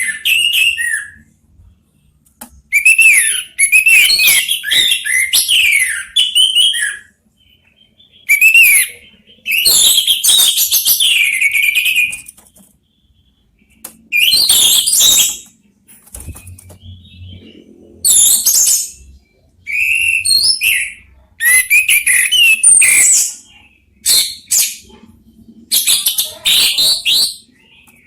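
Orange-headed thrushes singing and answering one another, in repeated bursts of a second or two of varied high whistles and rapid chattering notes, with short pauses between.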